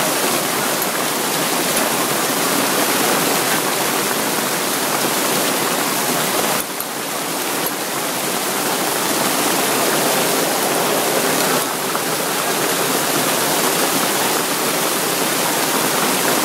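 Heavy rain pouring down in a steady, dense rush of water, dipping briefly twice.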